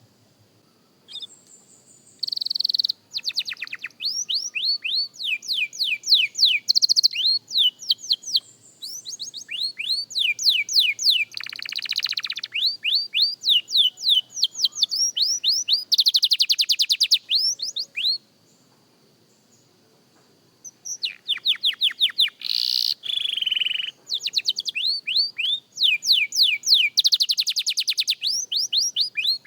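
Young domestic canary singing a practice song: fast trills of repeated falling notes, switching from one series to the next, with a pause of about three seconds past the middle.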